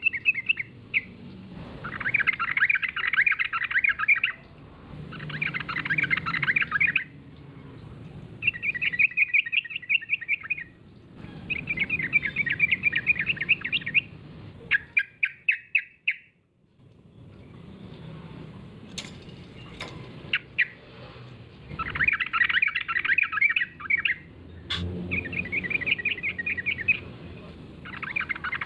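Yellow-vented bulbul (trucukan) singing its bubbly, chattering phrases again and again, each a second or two long with short pauses between, and a longer break about halfway through. A few sharp clicks come in the second half.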